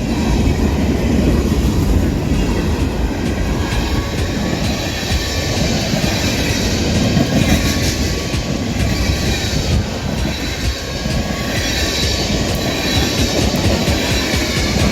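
CSX freight train passing at high speed: a loud, continuous rumble of steel wheels on rail, with rapid clicking as the wheels cross rail joints.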